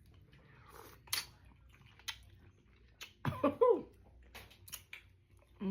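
Close-up eating sounds of seafood being chewed: sharp mouth clicks and smacks, and about three seconds in a short, loud vocal sound from the eater, a hum or cough-like noise.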